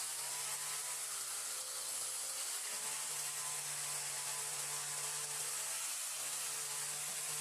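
A motor running steadily: a low, even hum under a constant hiss.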